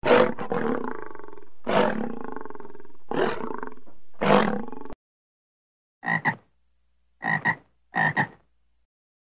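A lion roars four times, about a second and a half apart, with a rough rumble between calls, and it stops abruptly. Then a frog gives three short croaks, each doubled.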